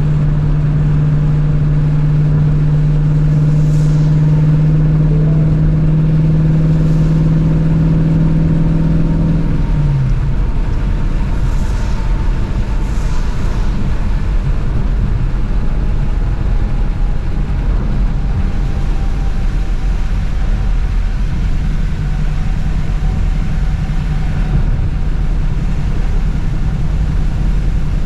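Shelby GT350's 5.2-litre flat-plane-crank V8 cruising at a steady engine speed with a steady drone. About ten seconds in, the pitch drops and the note falls away to a lower, steady rumble under tyre and road noise on wet pavement.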